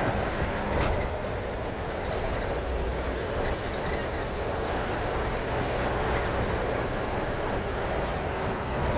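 Steady road and engine noise of a truck on the move, heard from inside the cab: an even low rumble with hiss above it.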